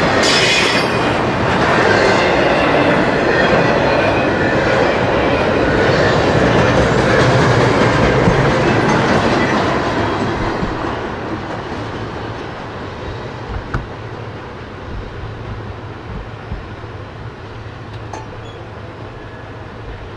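Double-stack container freight train rolling past on its well cars, the wheels clattering on the rails. About halfway through the sound fades as the train moves away.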